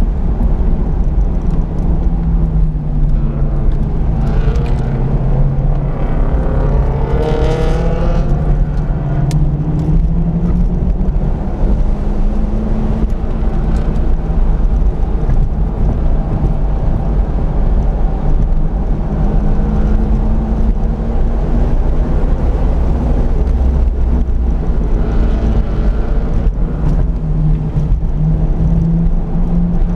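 Corvette C5 Z06's 5.7-litre LS6 V8 running hard on track, its engine note rising and falling several times as the car accelerates and lifts through the corners, heard from inside the cabin over a constant low road rumble.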